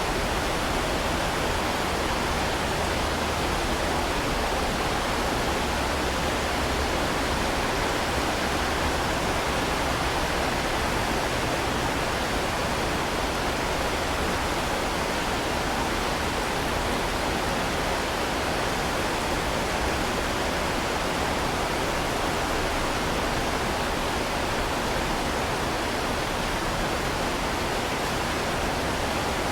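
Heavy rain falling in a steady, even hiss with no separate drops or thunder standing out.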